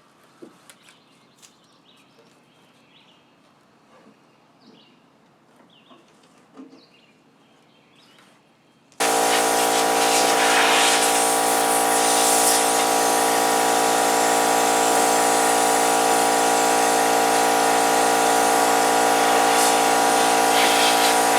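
Faint scattered clicks for about nine seconds, then a blower starts abruptly and runs loud and steady, a constant whine with rushing air, blowing accumulated debris out from under the riding mower's shield.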